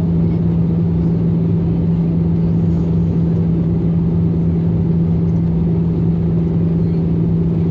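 Airbus A320 cabin noise: a steady drone of engines and rushing air with a constant low hum, unchanging throughout.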